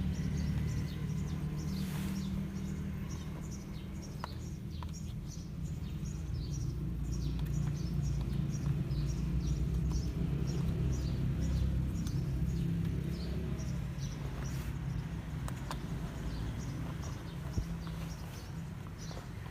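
Small birds chirping over and over, short high chirps a few times a second, over a low steady rumble.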